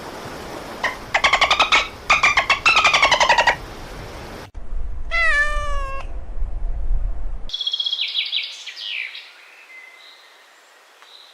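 Three separate animal calls one after another: a pulsing, slowly falling call lasting about two seconds, a short falling cry around five seconds in, then high chirps from about eight seconds in that fade away.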